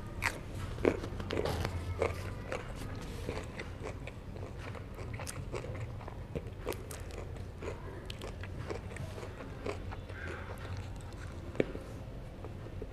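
A person biting and chewing herring close to the microphone: irregular mouth clicks and smacks, with sharper bites about a second in and near the end.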